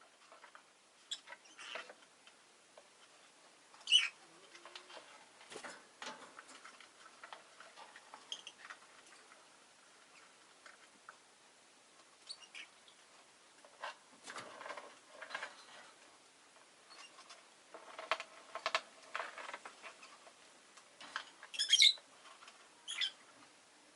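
Rosy-faced lovebird giving a few short, sharp chirps, one about four seconds in and a quick cluster near the end, with stretches of soft scratching and rustling in between.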